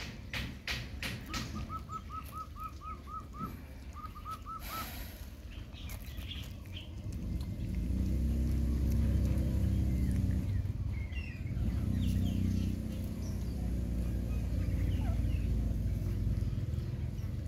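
About a second in, a bird chirps a quick run of short, evenly spaced notes, then a few more after a brief pause. From about seven seconds in, a louder low rumble takes over for most of the rest.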